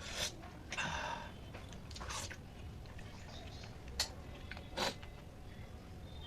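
A person eating: soft chewing and mouth sounds with a few short bursts, and two sharp clicks about four and five seconds in, typical of a plate or fingers against the dish.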